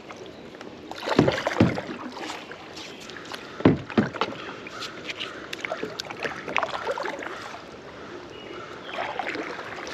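A fishing kayak being paddled upstream: paddle strokes in the water with several sharp knocks, the loudest about a second in and again near four seconds, over a steady wash of moving water.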